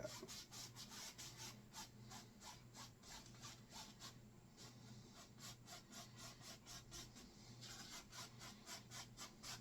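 A 1-inch paintbrush rubbing back and forth across a wet oil-painted surface, streaking in clouds: faint, even scrubbing strokes about four a second. A faint steady low hum sits underneath.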